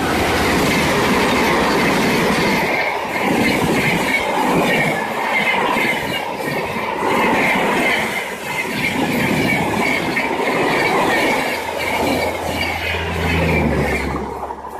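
Shatabdi Express train passing close by at about 130 km/h behind a WAP-5 electric locomotive: a loud, steady rush of wheels on rail as the AC chair-car coaches go by. It drops away sharply as the last coach passes near the end.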